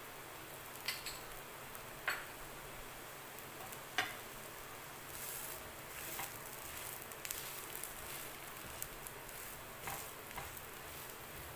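Besan cheela frying in oil on a tawa, with a steady sizzle. A metal spoon and a steel spatula click and scrape against the pan several times.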